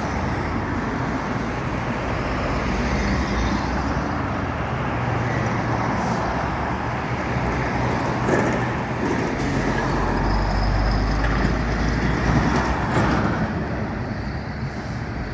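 City street traffic: vehicle engines running and tyres on the road, with a steady low engine hum from a passing truck.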